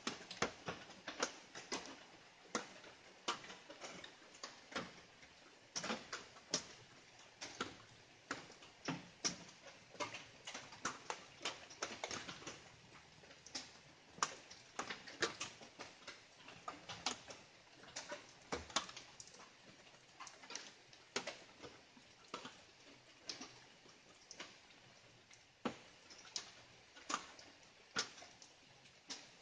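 Light rain, heard as individual drops pitter-pattering irregularly, several a second, over a faint hiss.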